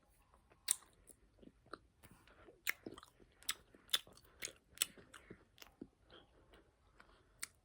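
Close-up chewing of soft gummy candy: a string of faint wet mouth clicks and smacks at irregular intervals.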